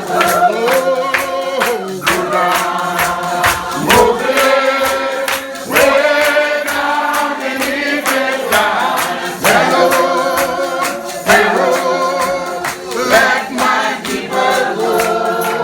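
Spiritual Baptist congregation singing a hymn together, several voices holding and sliding between long notes over a steady percussive beat.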